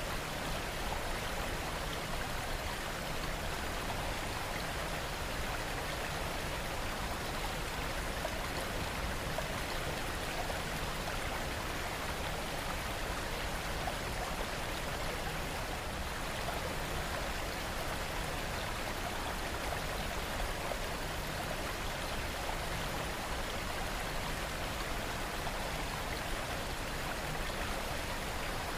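Steady rain: an even, unbroken hiss of falling rain that holds at one level throughout.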